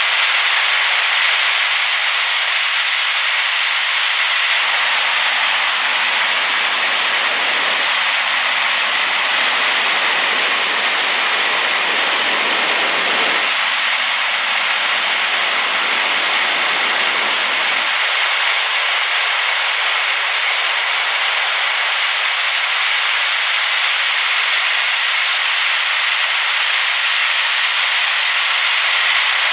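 Waterfall on a rain-swollen river: a steady, loud rush of falling water with a constant hiss. It grows a little deeper for about a dozen seconds in the middle.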